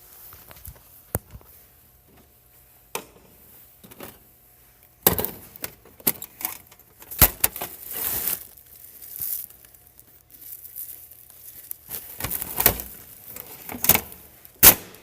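Belongings being handled and packed into bags: rustling and crinkling with irregular sharp knocks and clatters of objects set down.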